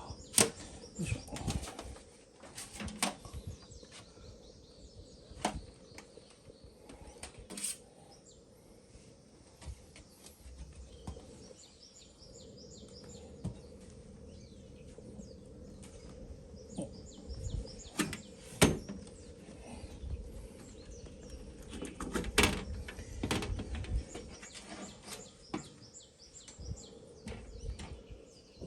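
Scattered knocks and clicks, as of camp gear being handled and set down, with birds chirping in the background.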